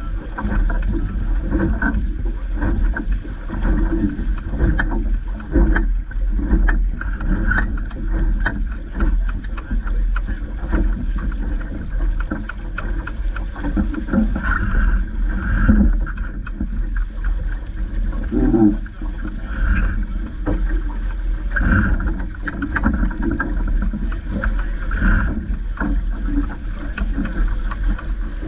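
Small sailing dinghy underway: water splashing and slapping against the hull with irregular knocks, over a steady low rumble of wind on the microphone.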